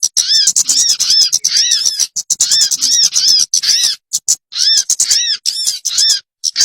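Bird lure call ('pikat'): rapid, loud series of short squawking notes, each rising and falling in pitch, in runs broken by brief gaps.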